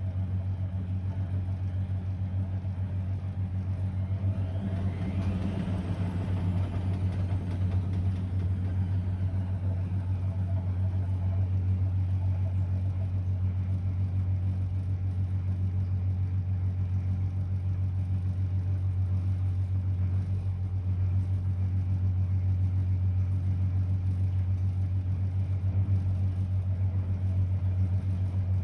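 Blomberg WA391 washing machine running a 90 °C boil wash, with a steady low hum throughout and a brief sweeping sound about five seconds in.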